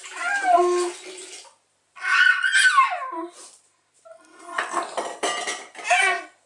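A young child making wordless vocal noises, high-pitched and gliding up and down in pitch, in three bursts of about a second and a half each.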